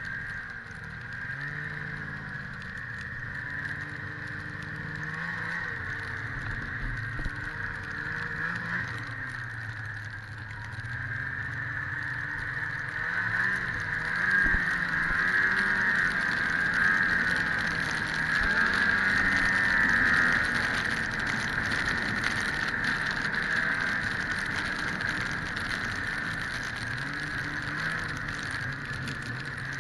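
1997 Ski-Doo MXZ 670 snowmobile under way: its two-stroke engine and track run continuously, the engine pitch rising and falling with the throttle. The sound swells to its loudest in the middle stretch.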